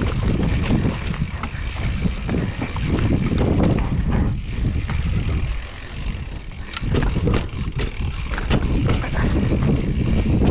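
Mountain bike running down a downhill trail: wind buffeting the action camera's microphone and tyres rumbling over the ground, with scattered sharp rattles and knocks from the bike that cluster about two-thirds of the way through.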